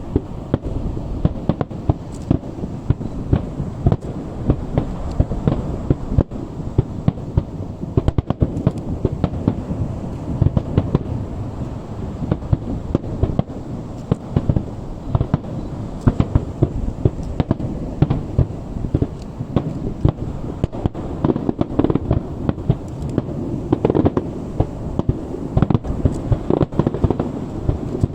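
Fireworks show: a dense, continuous barrage of shell bursts and bangs, several a second, heavy in the low end.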